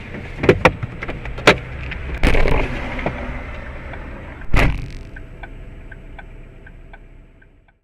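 Car cabin sound picked up by a dash camera: scattered knocks, then a loud thump about four and a half seconds in. After it comes a fast, even ticking, about three a second, over a faint steady tone, fading out near the end.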